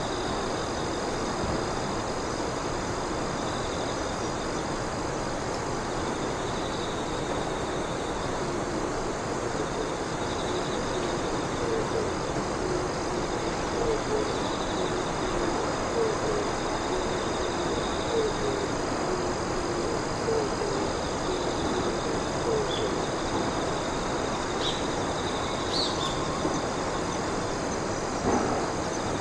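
Night insects chirping in steady, pulsing trills over a constant background hiss. Through the middle, a short low hooting call repeats every second or two.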